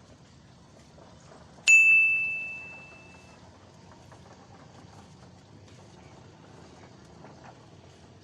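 A single high, clear metallic ding, struck once about two seconds in and ringing away over about a second and a half, over a faint steady background.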